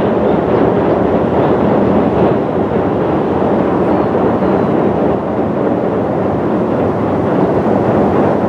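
Ten-car E233 series electric train crossing a steel truss railway bridge: a steady, even running noise.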